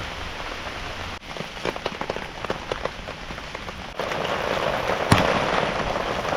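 Heavy rain falling, with individual drops ticking sharply on a surface. About four seconds in, the rain becomes a denser, louder downpour, with one sharp knock soon after.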